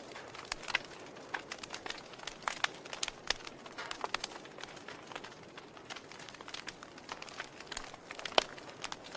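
Wood fire burning in a fireplace, crackling: a steady soft hiss with irregular sharp pops and snaps, one louder pop near the end.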